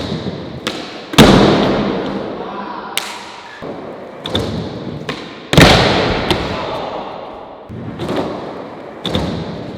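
Skateboard tricks on a hard surface: two loud board slams, about a second in and just past the middle, each ringing out with a long echo, and lighter wooden clacks of the board's tail and wheels between them.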